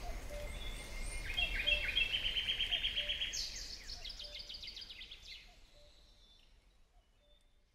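Outdoor ambience with a bird singing: a fast run of repeated chirping notes about a second in, then a higher series of quick notes, over a low background rumble. Everything fades out about six seconds in.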